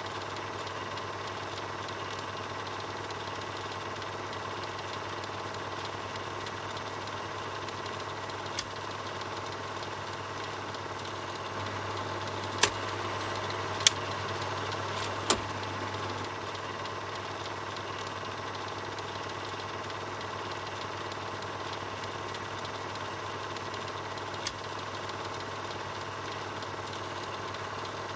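Film projector running with a steady mechanical whirr and low hum. Sharp clicks cut through it five times, three of them close together in the middle.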